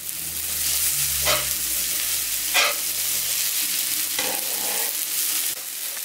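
Udon noodles and vegetables sizzling steadily on an electric teppanyaki flat grill while being tossed with spatulas, which scrape against the griddle plate a few times.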